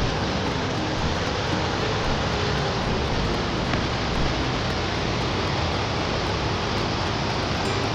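Waterfall rushing: a constant, even wash of falling water with no breaks or changes.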